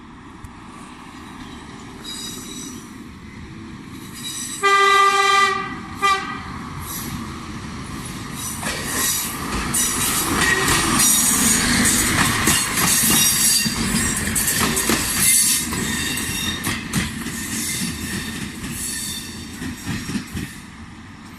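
A train passing: a short horn blast about five seconds in, the loudest sound, and a brief second toot just after. Then comes the long rumble of the passing train with high-pitched wheel squeal, which fades near the end.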